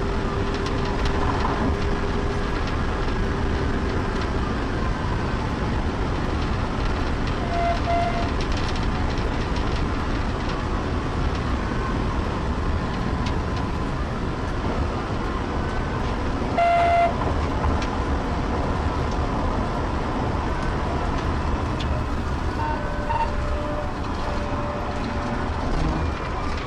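Police patrol car at very high speed: steady road, wind and engine noise heard from inside the car, with a siren wailing faintly. Two short beeps sound, about eight seconds in and again about seventeen seconds in.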